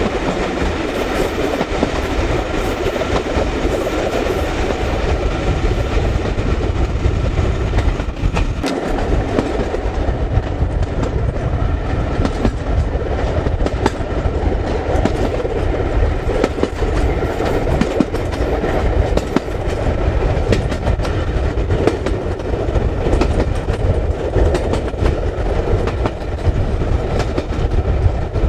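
Carriages of a moving train running on jointed track, heard from an open window at the rear of the train: a steady rumble of wheels on rails with frequent clicks, and wind buffeting the microphone.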